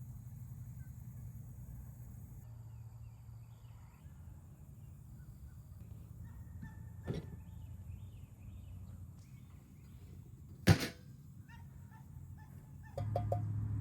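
Outdoor ambience with a steady low rumble and faint bird chirps; a sharp knock rings out about ten and a half seconds in, after a smaller one a few seconds before. A louder low engine-like drone sets in near the end.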